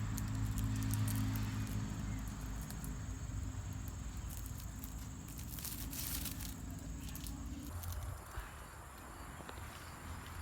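Outdoor ambience: a steady high insect drone and a low steady hum, both stopping about eight seconds in, with a few light clicks and taps about two-thirds of the way through.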